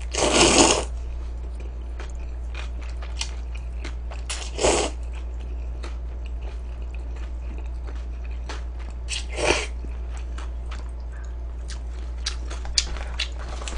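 A person eating cold tray noodles up close: three short slurps about five seconds apart, with wet chewing clicks between them, over a steady low electrical hum.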